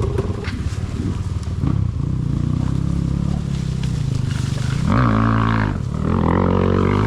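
Enduro dirt bike engine running under load, then revved hard about five seconds in and again near the end, rising in pitch each time.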